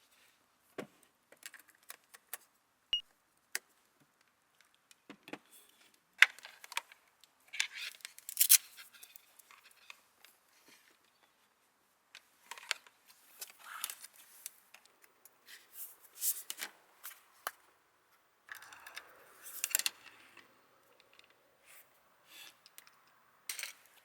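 Lens filters and their cases being handled: scattered clicks, taps and light rattles, with a few busier clusters of rattling.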